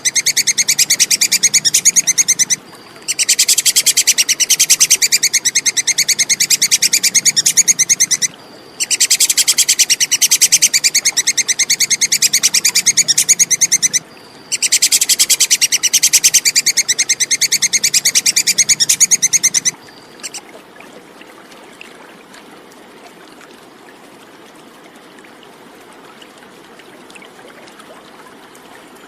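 Squirrel's 'kekes' chattering call: rapid, high-pitched repeated ticks in four bouts of about five seconds each, with short breaks between. About twenty seconds in, the calling stops and only a faint steady background noise is left.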